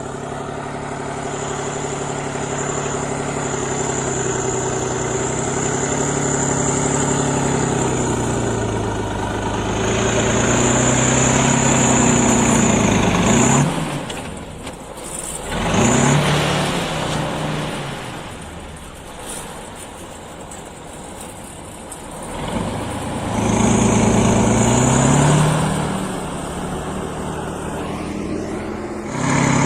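Kirovets heavy tractor's diesel engine working, revving up and easing off several times, with a high whine over the loudest surges.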